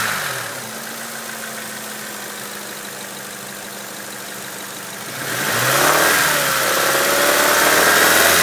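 1995 Honda Civic's D16Z6 1.6-litre four-cylinder engine dropping back to idle, idling steadily, then revved up again about five seconds in and held. The owner hears a possible engine knock that speeds up with the revs, loudest around 2,000–3,000 rpm.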